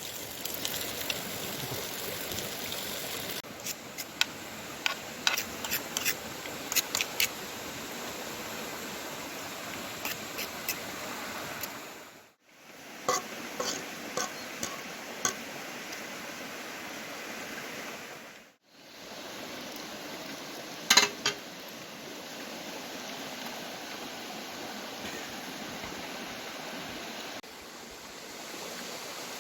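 Metal utensils clinking and scraping against a cooking pot in short scattered clusters, over the steady rush of a running forest stream.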